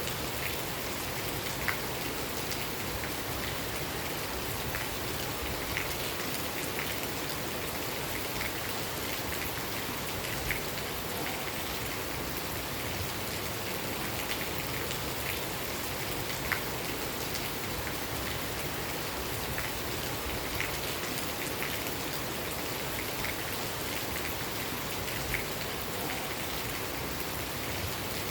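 Steady rain falling, an even hiss with occasional louder single drops ticking.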